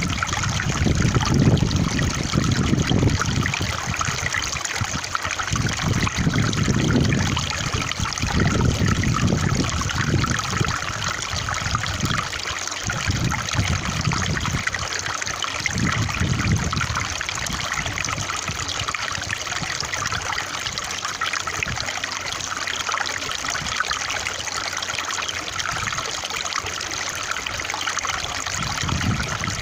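Running water trickling and splashing steadily, like a small stream, with low swells coming every second or two through the first half and easing off after that.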